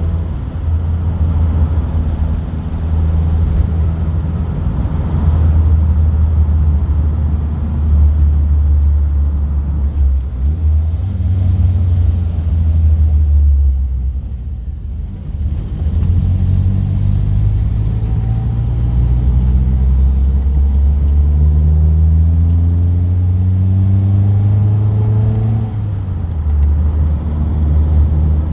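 Classic car's engine heard from inside the cabin while driving, a steady low drone. About halfway through it eases off briefly, then it pulls with its pitch rising for several seconds before dropping sharply near the end, as at a gear change.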